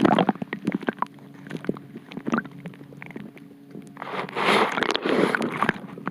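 Knocks and rattles of a camera or phone being handled, then, about four seconds in, a rush of water and bubbling lasting under two seconds as it is lowered into the sea.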